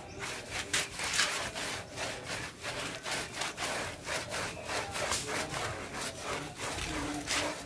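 Repeated rubbing strokes of a dog's shampooed coat being scrubbed during a bath, an irregular scratchy rhythm of about two to three strokes a second.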